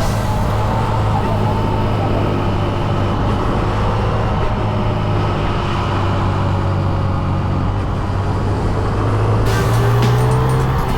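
Honda Monkey 125's single-cylinder engine running steadily under way, its pitch rising near the end as it speeds up.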